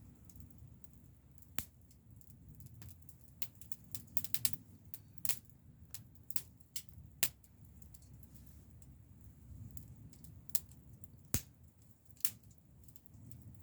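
Wood fire crackling: irregular sharp pops and snaps, a quick cluster of them about four seconds in, over a low steady rumble.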